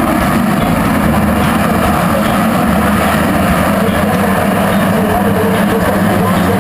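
Motocross race bikes running on the track, their engines revving and blending into a loud, steady drone.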